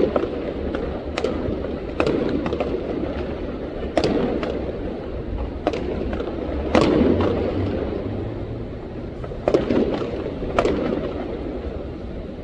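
Fireworks exploding: a string of sharp bangs, about seven big ones a second or two apart with smaller pops between, each followed by a rolling rumble as it echoes away.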